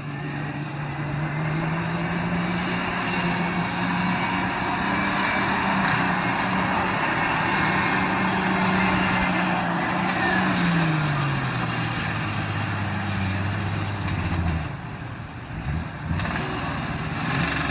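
Diesel engine running at high revs, then its speed falls about ten seconds in and settles at a much lower, steady speed, with a brief drop in level near the end.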